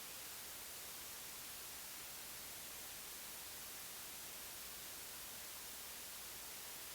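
Steady, faint hiss of recording noise with no other sound.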